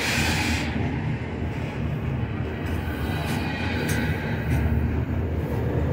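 Union Pacific double-stack intermodal well cars rolling slowly past, a steady low rumble of wheels on rail with a few faint knocks and a brief hiss at the start.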